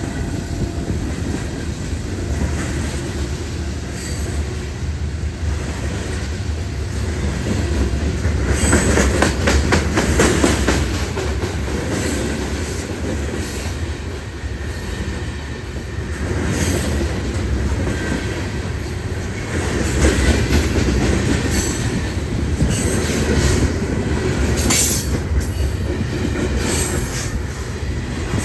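A train rolling past, with a steady rumble of wheels on rail. Its wheels clack in quick runs over rail joints, first about a third of the way in and again in the second half.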